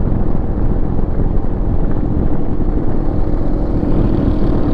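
Harley-Davidson V-twin motorcycle engine running steadily under way, with wind rush on the helmet microphone.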